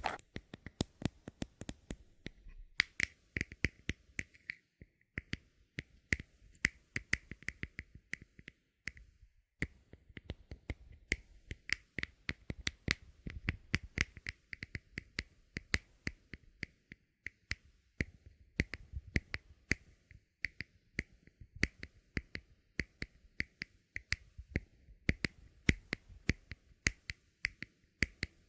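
Bottle cap being tapped and clicked rapidly: a dense run of sharp clicks, broken by two short pauses.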